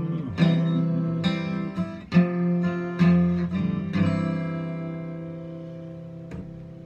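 Acoustic guitar strumming the closing chords of a song, about five strokes, then a last chord left ringing and slowly fading out.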